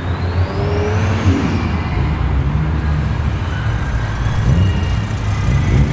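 Holden SS Commodore's engine running loud and low as the car drives out, with a faint high whine rising over the first second.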